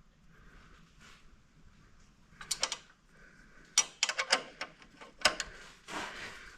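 Channel-lock pliers clicking and scraping on a small, stubborn square-head bolt as it is slowly turned loose, in several short groups of sharp metal clicks from about two and a half seconds in.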